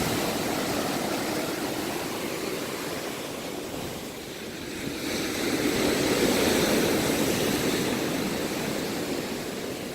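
Ocean waves washing against the shore: a steady surf noise, with one wave swelling louder about five seconds in and then easing off.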